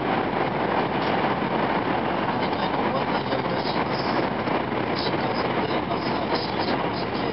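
Steady running noise inside the passenger cabin of an N700 series Shinkansen: an even, unbroken rush and rumble of the train at speed on the line.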